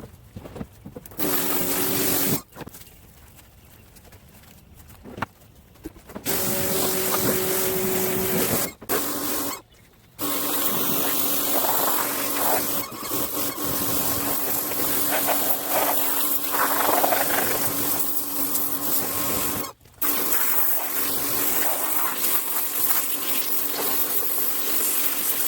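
Small pressure washer spraying water with a steady motor hum under the hiss of the spray, cut in and out by the trigger: short bursts in the first few seconds, then running almost without a break from about ten seconds in, stopping briefly near twenty seconds.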